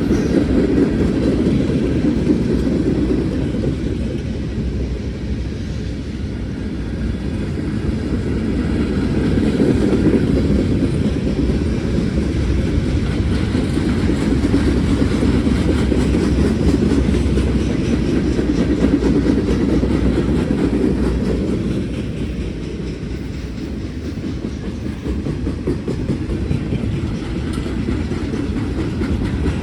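Norfolk Southern freight cars rolling past at close range, steel wheels clattering on the rails in a steady rumble that grows louder and softer a few times as the cars go by.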